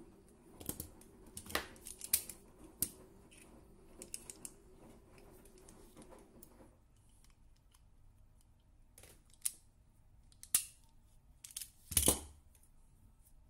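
Sharp snips and clicks of hand pliers working an electrical wire, typical of wire cutters and wire strippers cutting and baring a charger lead; about a dozen separate strokes, the loudest near the end. A low steady hum runs under the first half and stops about halfway through.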